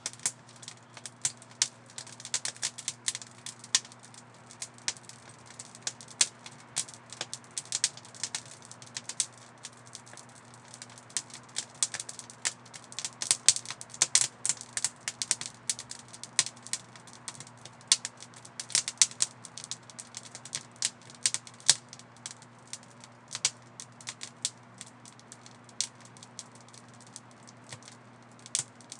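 Fire crackling: irregular sharp pops and snaps, sometimes several in quick succession, over a faint steady low hum.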